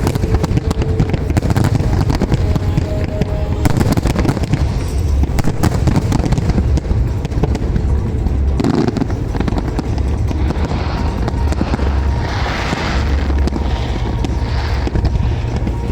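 Fireworks display going off: dense rapid crackling and bangs over a low rumble, thickest in the first half, with music playing underneath.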